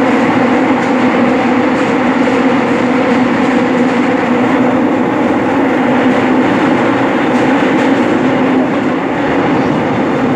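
Seoul Metro Line 7 subway train running at speed between stations: a loud, steady rumble of wheels on rail with a steady hum from the running gear.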